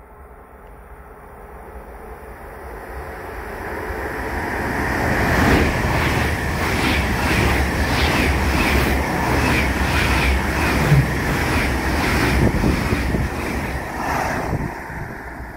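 Deutsche Bahn ICE train approaching and passing close by on the track. A rush of wheel and air noise swells over the first five seconds, then a loud steady rush with a regular clatter of wheels on the rails, about two beats a second, eases off near the end as the last cars go by.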